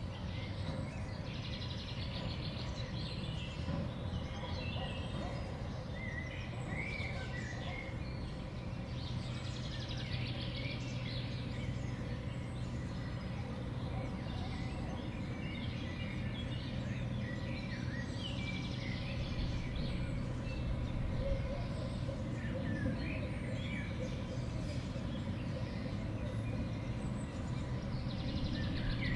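Small songbirds chirping and calling, with many short overlapping calls throughout, over a steady low background hum.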